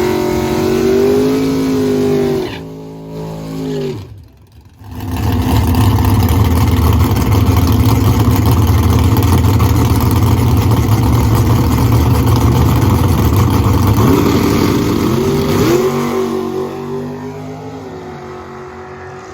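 Drag race car engine at the strip: first revving in short blips, then, after a break, running at full throttle for about ten seconds in a loud, steady roar, before the sound rises in pitch and fades away near the end.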